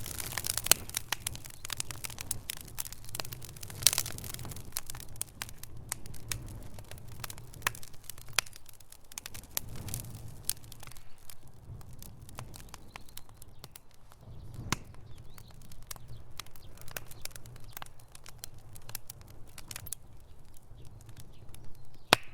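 Wood fire in a fireplace crackling, with irregular sharp pops and snaps over a faint low rumble of flames, and one loud snap near the end.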